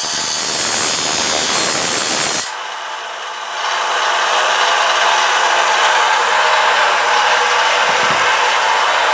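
A power tool working metal, loud for about two and a half seconds. It dips for a second, then runs steadily again.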